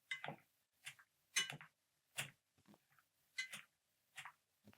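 A kitchen utensil knocking and scraping against cookware while mashing potatoes and mixing in dill: about eight short, irregular knocks, some with a brief ring.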